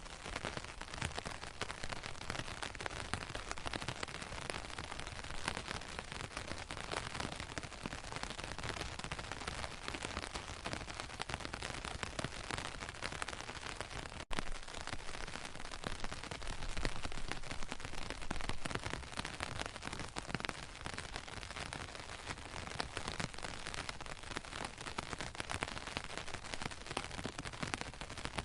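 Steady rain falling, a dense patter of drops striking close by, with a brief break about halfway through.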